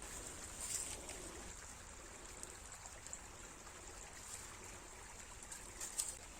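Stream water flowing steadily, with a few brief sharp clicks about a second in and near the end.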